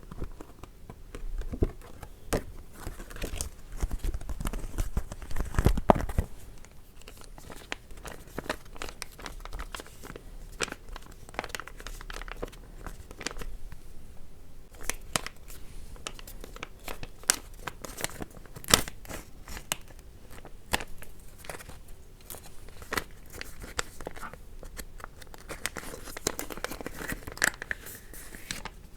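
A foil sheet-mask packet being torn open and crinkled: a dense run of crackles and rustles, loudest in the first six seconds.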